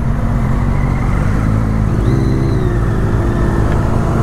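Motorcycle engine running steadily under way, with wind rushing over the microphone. A short higher-pitched tone sounds about two seconds in.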